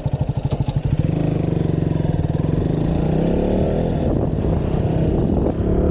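Motorcycle engine running under way: slow distinct pulses for the first second, then steadier, rising in pitch as it accelerates about three seconds in.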